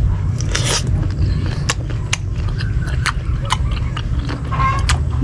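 Crisp green mango being bitten and chewed close to the microphone: a loud crunch about half a second in, then scattered sharp crunchy clicks, over a steady low rumble.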